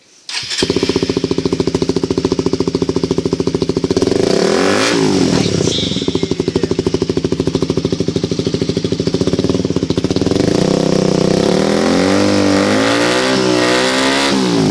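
Honda CBR motorcycle engine breathing through a Yoshimura aftermarket exhaust. It comes in about half a second in and runs loud and steady. It revs up and back down once about 5 s in, then is blipped up and down several times over the last few seconds.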